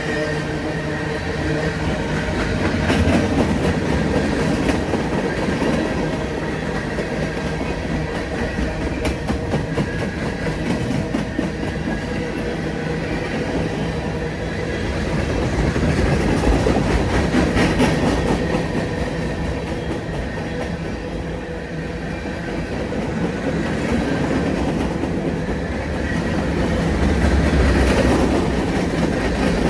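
A train rolling past on the tracks, its wheels clicking over the rail joints. The noise swells and eases a little several times.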